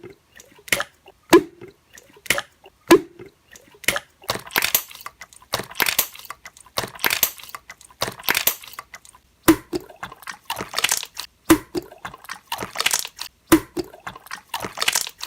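Slime being worked by hand, trapping and popping air bubbles. In the first few seconds come sharp pops about once every second. From about four seconds in there are longer wet squishing sounds, and after about nine seconds the sharp pops return, often two in quick succession.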